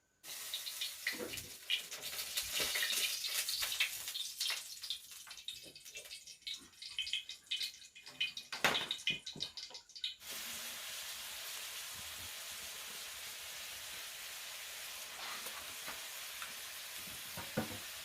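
Irregular splashing and clattering for about ten seconds, then an abrupt change to a steady sizzling hiss of food cooking over heat.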